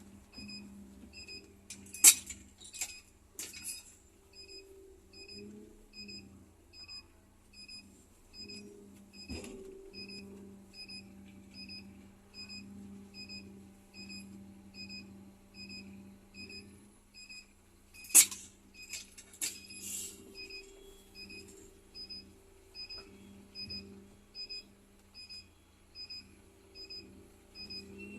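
Reversing beeper of a Scania K310 coach sounding a steady, evenly repeated beep, about one and a half beeps a second, while the bus manoeuvres. Under it is the low steady hum of the engine, with a few loud sharp clicks about two seconds in and again about eighteen seconds in.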